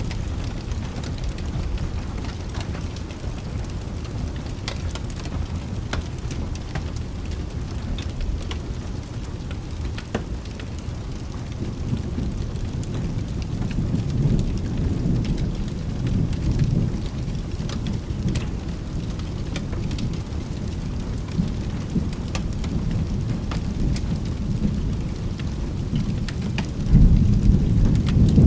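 Steady rain with rolling thunder. A low rumble swells about halfway through, and a louder peal of thunder breaks near the end, with scattered faint clicks throughout.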